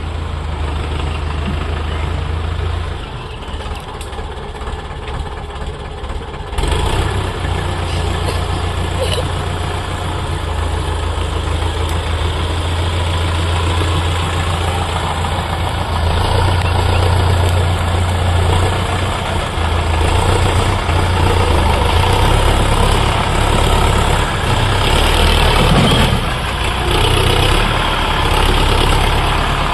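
Tractor diesel engine running steadily, with a dense mechanical clatter over it. It gets abruptly louder about six and a half seconds in.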